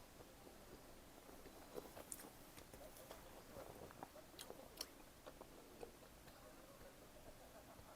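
Faint close-up chewing of pizza, with soft wet mouth clicks and a scatter of small sharp ticks in the middle of the stretch.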